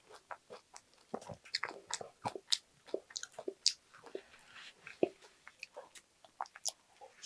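Close-up eating sounds: chewing and soft crunching of strawberry cheesecake with a crumble topping, with wet mouth clicks and a spoon scooping cake from the plastic tub. The sounds come as many short, irregular clicks and crackles.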